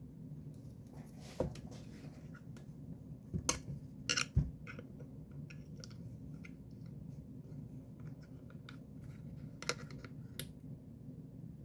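Scattered clicks and knocks of hands and a tool handling a speaker's plastic casing as it is being opened, with a cluster of sharper taps about four seconds in and two more near the end, over a low steady hum.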